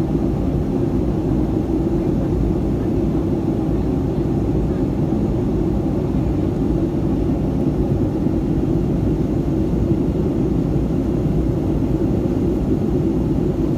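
Steady low drone inside the cabin of a Boeing 757-200 in flight: even engine and airflow noise with no change in pitch or level.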